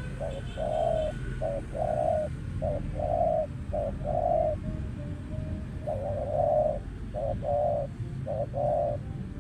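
Caged spotted dove cooing in two phrases of low, repeated coo notes, short and longer notes alternating, with a pause of about a second between the phrases.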